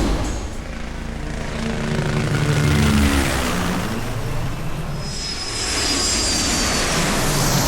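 Low-flying airplane passing close overhead on approach to land, its engine drone dropping in pitch as it goes by. A high engine whine builds again during the second half.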